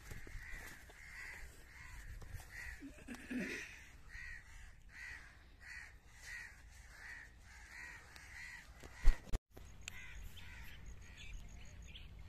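A bird calling over and over in a steady series of short, repeated calls, about one and a half a second. About nine seconds in there is a single sharp knock, and the sound cuts out for a moment.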